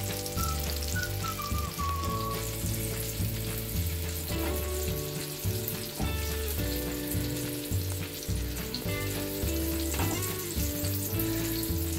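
Masala-topped eggplant slices sizzling steadily in oil in a flat pan on a low flame, with a few scrapes and taps of a spatula on the pan as slices are lifted out. Background music plays underneath.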